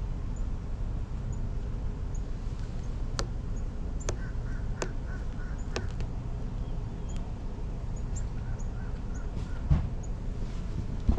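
A bird calling in a run of short, quickly repeated notes for about five seconds, over a steady low rumble of outdoor background noise. A few sharp clicks are scattered through, and there is a brief low thump near the end.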